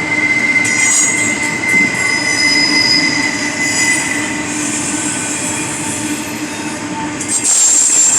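Train rolling past with its wheels squealing against the rails: several long steady squeal tones over a rumbling noise, with a higher, louder squeal setting in near the end.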